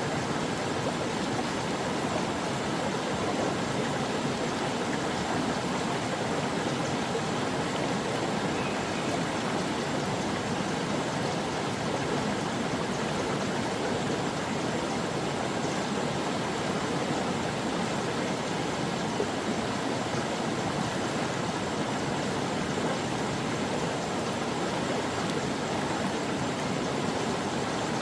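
A stream flowing, a steady, even rush of running water with no breaks.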